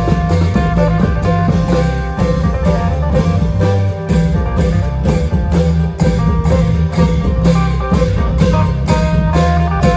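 Isan klong yao band playing: long drums keep a steady beat under an amplified plucked-string melody.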